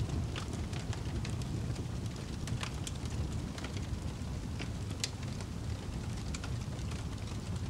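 Wood fire crackling in a fireplace: scattered sharp pops and snaps, several a second, over a steady low rumble.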